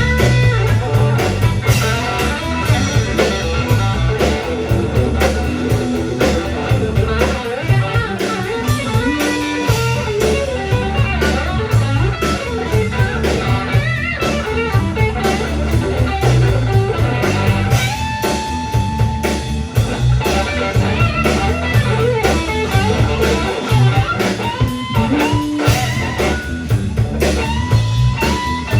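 A rock band playing an instrumental passage with no singing: electric lead guitar over bass and drums, with a long held guitar note about two-thirds of the way through.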